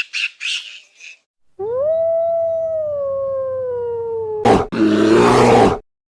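A few short high-pitched calls, then one long canine howl lasting about three seconds that rises quickly and then slowly sinks in pitch, followed near the end by a short harsh, rasping animal call.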